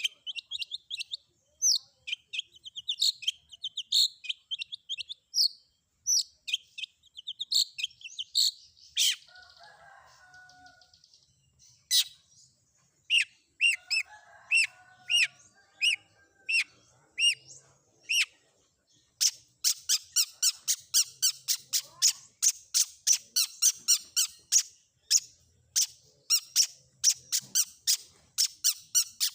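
Recorded songbird calls, a combination of filler songs used to train long-tailed shrikes: sharp, high repeated chips and short whistled notes, turning into a fast, dense run of chips about two-thirds of the way through.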